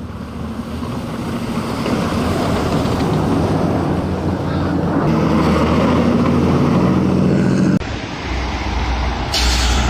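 Vehicle engine and road noise with wind on the microphone. The sound cuts abruptly about eight seconds in to another noisy scene, with a short burst of hiss near the end.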